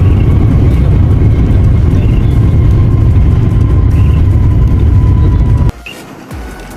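Loud, steady engine rumble with a thin high whine above it, cut off abruptly near the end, leaving quieter music.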